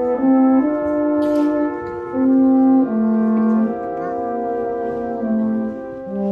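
Brass quartet playing a slow passage: several held notes in harmony, moving from chord to chord every second or so.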